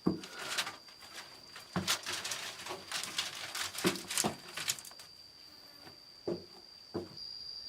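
A steady high insect drone runs under irregular close knocks and rustles, like sticks or material being handled.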